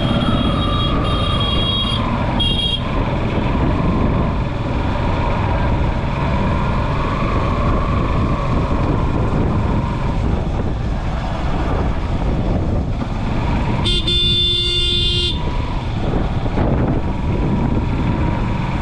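Vehicle horns honking over a loud, steady rushing noise: a horn from the start to about two seconds in, a short toot just after, and a longer honk near the end.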